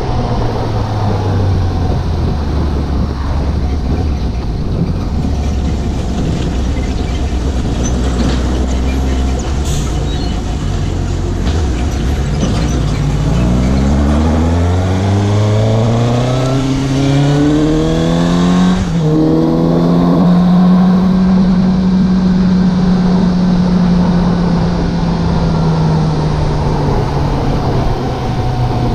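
Suzuki GSX750 inline-four motorcycle engine under way at low, steady revs, then accelerating with a long rising pitch for about six seconds. It changes up with a sudden small drop in pitch, holds a steady higher note, and eases off near the end.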